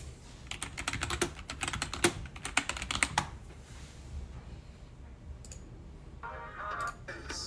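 Rapid clicking of typing on a computer keyboard for a few seconds, then music starts near the end.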